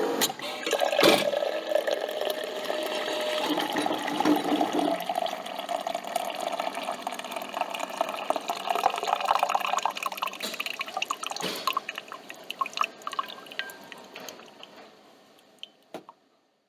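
Coffee trickling and dripping from a coffee machine into a cup, with a short knock about a second in. The trickle thins to scattered drips and dies away near the end.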